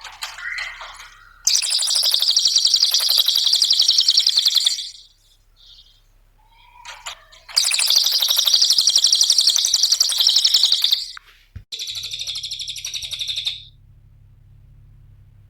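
Cililin songbird singing in loud, rapid chattering trills. There are three bursts of about two to three seconds each, with short pauses between them.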